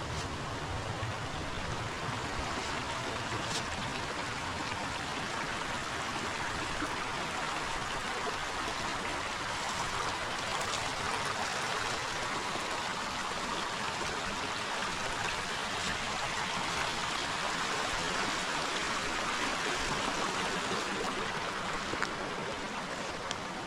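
A forest river or stream running, a steady rushing and trickling of water, with a sharp click about 22 seconds in.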